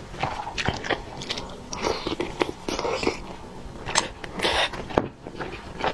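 A person eating, chewing and biting mouthfuls of rice and braised chicken: a quick, uneven run of short mouth clicks and smacks, with a brief lull about five seconds in.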